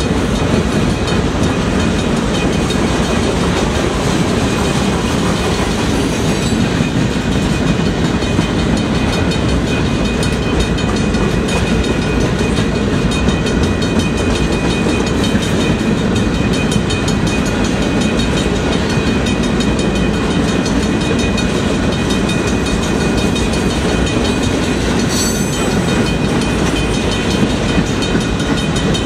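Freight cars rolling past at speed: a loud, steady rumble of steel wheels on rail, with some clickety-clack at the rail joints.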